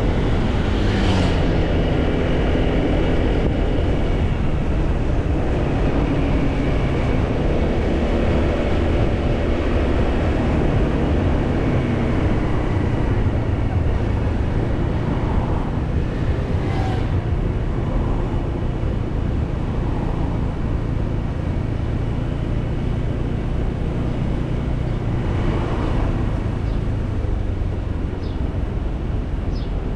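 Motorcycle engine running steadily while the bike cruises, over a continuous low road and wind rumble. The engine note drops about a second in.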